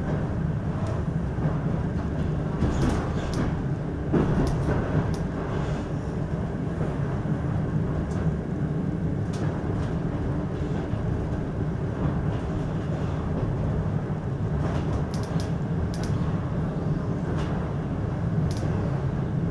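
Inside a moving passenger railway car: the steady low rumble of the wheels running on the rails as the train runs into a station, with scattered sharp clicks and knocks and a louder knock about four seconds in.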